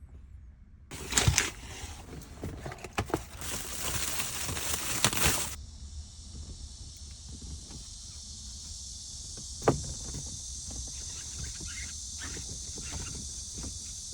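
Car cabin ventilation blower running with a steady airy hiss from about six seconds in, after several seconds of louder rustling with sharp clicks; a single knock a little before ten seconds.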